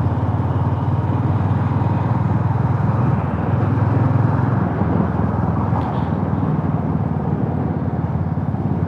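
Motorcycle engine running steadily while riding, with a continuous low-pitched drone.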